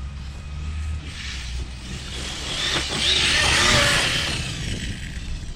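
Arrma Kraton 6S radio-controlled truck making a full-throttle pass through thick wet grass. Its electric motor whine and tyre noise rise to a peak about three to four seconds in, then fade as it goes by.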